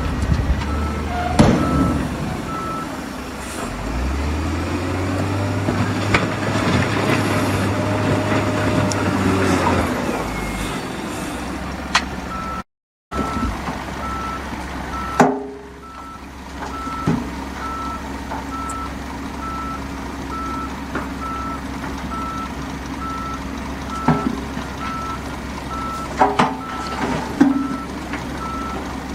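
Heavy diesel machinery running, with a reversing alarm giving evenly spaced high beeps, broken off near the start and steady again from a little before halfway. A few sharp metallic knocks stand out over the engine sound.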